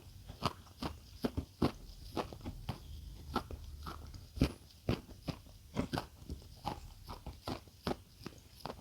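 Close-miked chewing of crisp food: sharp, irregular crunches, several a second.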